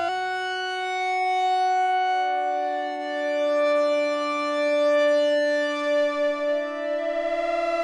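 Sequential OB-6 analog polysynth holding sustained chords on a pulse-width-modulated patch. The notes slide slowly into a new chord in the first few seconds and shift again near the end. From about six seconds in the tone wavers in level, more quickly toward the end.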